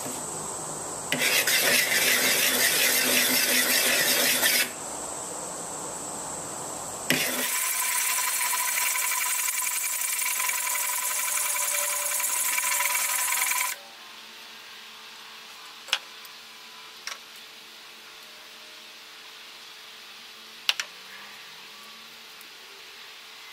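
Metal being abraded while a hatchet head is sharpened: two loud stretches of continuous rasping, the second with a steady whine under it. Crickets chirp in the quieter gaps, and a few sharp ticks come near the end.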